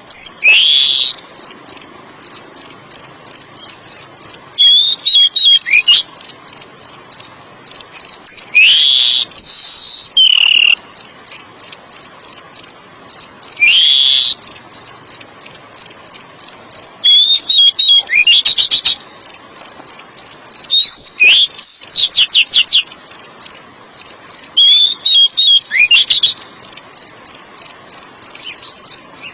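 Oriental magpie-robin (kacer) singing short, loud, sweeping whistled phrases every few seconds, over a cricket chirping in an even rhythm of about three pulses a second.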